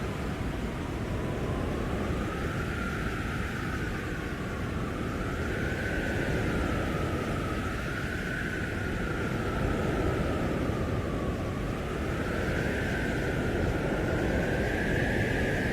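Blizzard wind blowing hard in a steady rush, with a high howl that slowly rises and falls in pitch every few seconds.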